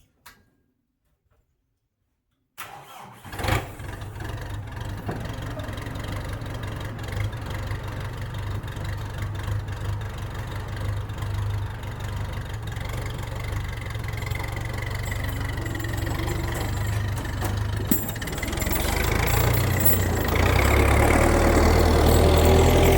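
An engine starts up suddenly and runs at a steady speed. About three-quarters of the way through it gets louder and higher-pitched, as if revved or put under load.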